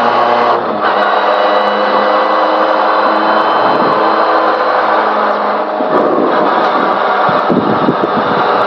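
Honda Civic rally car's engine running at a steady cruise, heard inside the cabin, with a brief change in engine note about half a second in. Road and tyre noise grows rougher in the second half.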